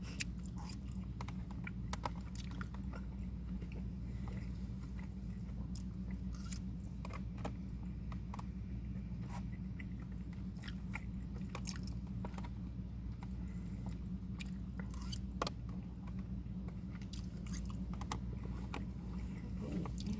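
A person chewing and biting food close to the microphone, with many short, irregular crunchy clicks over a steady low hum.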